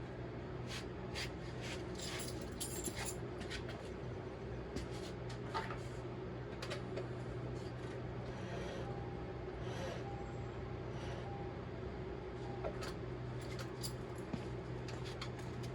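Scattered faint clicks and light knocks of metal parts being handled and shifted during front strut work, over a steady low hum.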